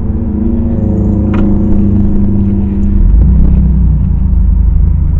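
Car engine drone and road rumble heard inside the cabin while driving. A deeper, heavier rumble comes in about three seconds in.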